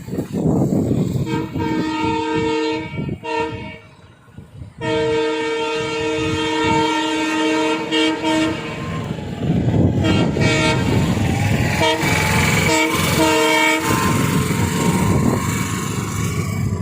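Train air horn sounding a chord of several notes in long blasts over the rumble of the moving train, then a run of short blasts about ten seconds in.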